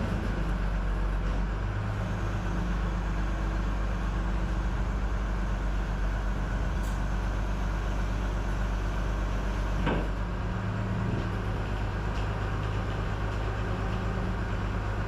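Rollback tow truck's engine running steadily, with a single sharp knock about ten seconds in.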